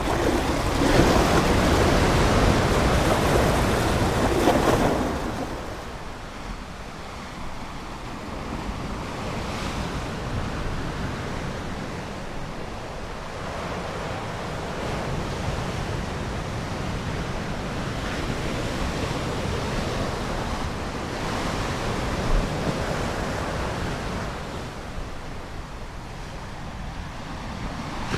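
Ocean waves breaking and washing on the shore. A large wave surges in the first five seconds and then recedes, followed by softer swells of surf.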